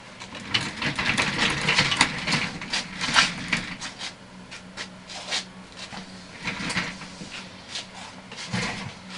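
Handling noise: a run of irregular rustles, clicks and light knocks, busiest in the first few seconds and sparser after.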